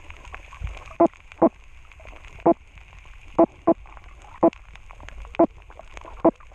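Flying gurnard (Dactylopterus volitans) clucking: eight short, pitched grunts at irregular half-second to one-second intervals over a steady hiss. The sound is made with the fish's swim bladder.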